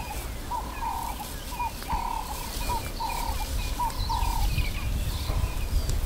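A bird calls over and over, each time a short rising note followed by a longer held note, about seven times before stopping about four and a half seconds in. Fainter chirps from other birds come in higher, over a steady low rumble.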